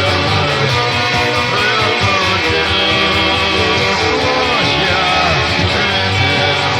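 Distorted electric guitar, a Fender Jazzmaster in lowered tuning, playing along with a full rock band backing track.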